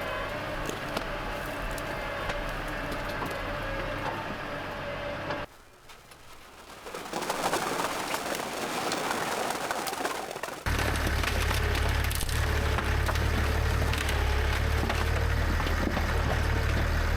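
Tractor engine running steadily, broken by two abrupt cuts. In the middle, a few seconds of dense crackling and snapping noise take over. After the second cut the engine hum is louder and deeper.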